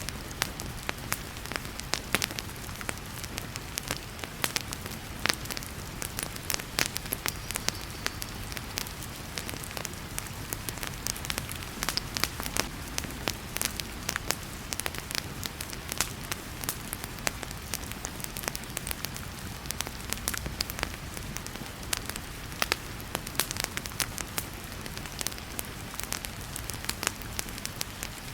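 Wood fire crackling with frequent sharp pops and snaps over a steady hiss of heavy rain.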